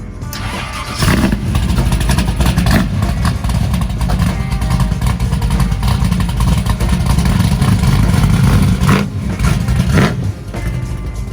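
A loud car engine with a deep exhaust rumble, coming in about a second in and revving in several surges before dropping off near the end.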